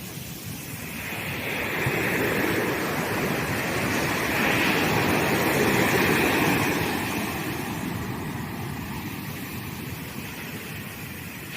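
Sea waves breaking on a sandy beach. The rush of surf builds over the first couple of seconds, peaks in the middle, then slowly ebbs away.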